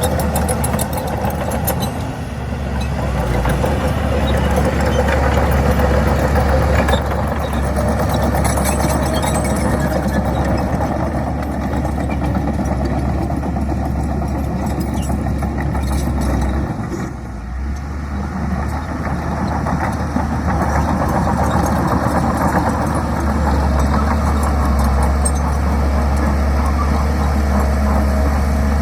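Diesel engine of a heavy earthmoving machine running steadily, with a strong low hum; the level dips briefly a little over halfway through.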